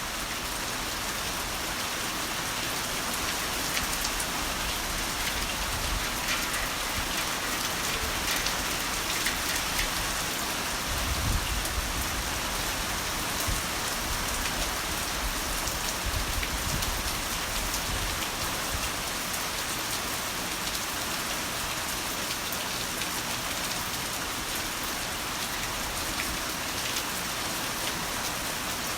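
Heavy rain falling steadily, a dense even hiss of drops on surfaces, with a couple of brief low rumbles near the middle.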